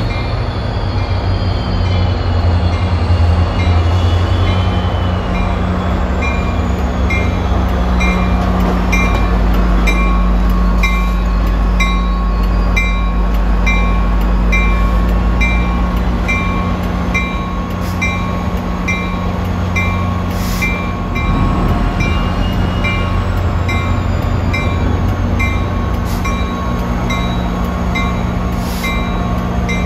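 Diesel locomotive pulling a commuter train out of the station, its engine running with a heavy low drone while its bell rings in steady, even strokes. Thin wheel squeal glides in near the start and again about two-thirds of the way through.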